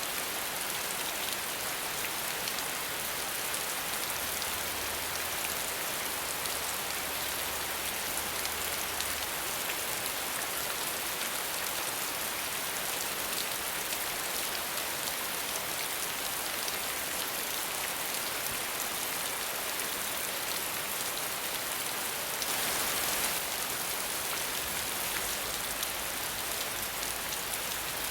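Steady rain falling, an even hiss of many drops, with no thunder. The rain swells slightly louder for about a second near the 23-second mark.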